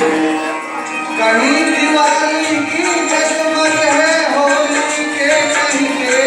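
Music of a Hindi patriotic song: a sung melody that enters about a second in over steady held accompanying tones, with light percussion.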